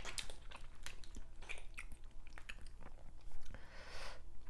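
Close-miked chewing of seafood-boil food, wet smacking and crisp clicks of mouth and teeth, with a brief swish near the end.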